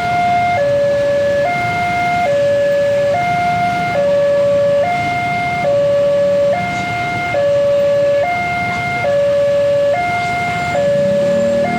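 Railway level crossing warning alarm sounding a two-tone signal: a higher and a lower tone alternate, each held just under a second, warning that a train is approaching and the barriers are down. Low traffic rumble underneath.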